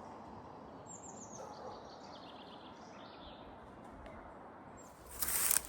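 A small songbird sings one phrase of quick notes that fall in pitch, over quiet woodland background. Near the end comes a louder rustle of footsteps pushing through undergrowth.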